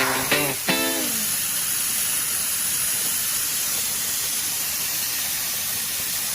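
Steady hiss from an air-carbon arc gouging torch, starting about a second in and holding level.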